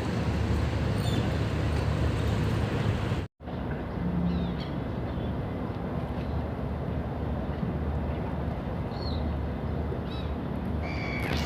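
Seafront city ambience: a steady low rumble of engines from boats and traffic, with a few short bird calls. The sound cuts out for an instant about three seconds in.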